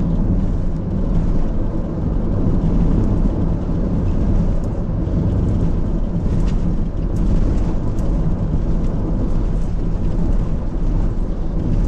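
Steady low rumble of a car driving over a broken, patched road surface, with a few faint ticks along the way.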